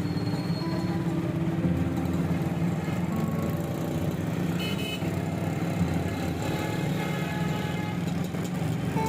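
Busy city street traffic: motor vehicle engines running, with short horn toots, one high toot about halfway through.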